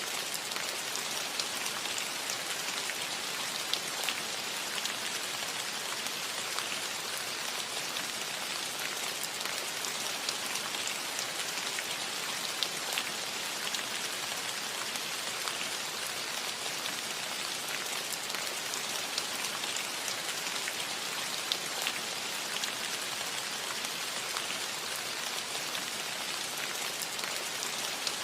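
Steady rain falling on a cottage roof: an even hiss with scattered sharper drop hits.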